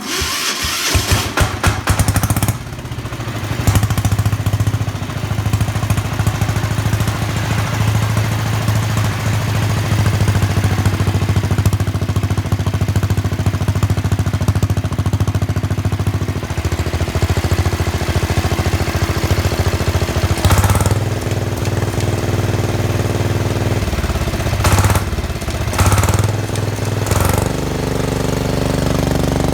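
Diesel engine of a 1973 Sears SS16 garden tractor, cold-started, catching in the first couple of seconds, then running steadily with a rapid knock through a straight Walker glasspack muffler. The engine note shifts briefly a few times in the last third.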